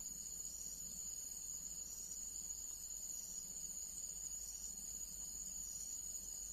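A chorus of insects, such as crickets, trilling steadily on one high pitch.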